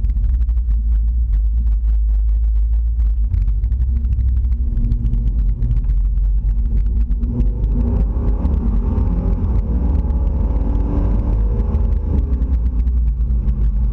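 Chevrolet El Camino engine heard from inside the cab, a steady deep rumble. About halfway through it pulls harder as the car accelerates, adding a fuller, higher engine note that eases off near the end.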